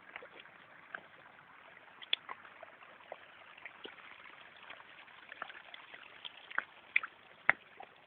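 Rain falling, with water trickling and dripping: a steady hiss broken by scattered sharp drips. The loudest drips come about two seconds in and twice near the end.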